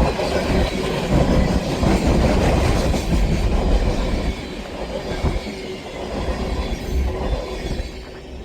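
Freight train rolling past, a steady heavy rumble of railcars on the rails that eases off in the second half and fades toward the end.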